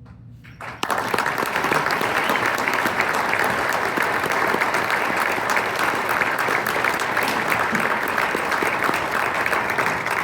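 Audience applauding: dense clapping that starts suddenly about a second in and keeps going steadily.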